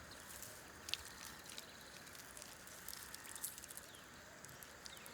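Faint natural ambience: a low steady hiss with a few short, soft ticks and rustles scattered through it.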